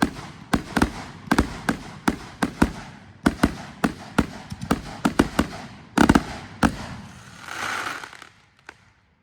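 Fireworks going off in a rapid, irregular string of sharp bangs, several a second. Near the end comes a short burst of hissing crackle, then it stops.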